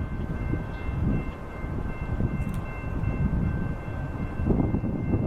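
Freight train rolling past, a continuous low rumble with a faint steady high-pitched ring above it.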